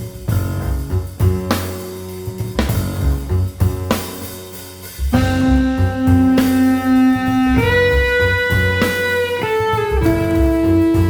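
Instrumental modern jazz: a drum kit with cymbals keeps time under a bass line, and about five seconds in a lead instrument enters, holding long sustained melody notes.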